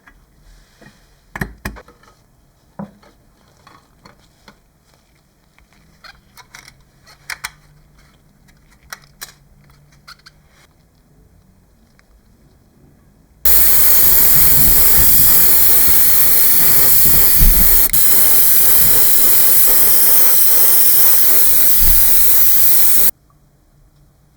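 Light clicks and taps of small parts being handled, then a loud, steady spray hiss for about ten seconds that starts and stops abruptly, as when paint is sprayed onto model parts.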